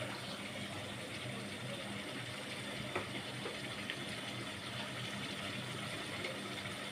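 Onions and spice pastes frying in hot oil in a cooking pot, a steady sizzle, with two light clicks a little before and after the middle.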